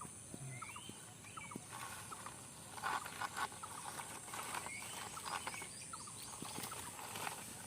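Quiet outdoor background with a few short rising chirps from small animals, scattered light clicks and rustles, and a steady high-pitched hiss.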